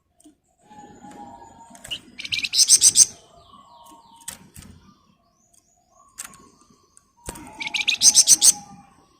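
Flamboyan songbird singing, with two loud, dense rattling trills (the 'ngebren' burst) about 2 s and 7.5 s in, and soft low whistled notes between them.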